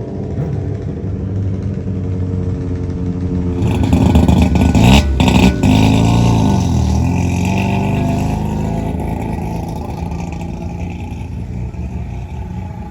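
A car engine running, growing louder to a burst of revs about four to six seconds in, then easing off and fading.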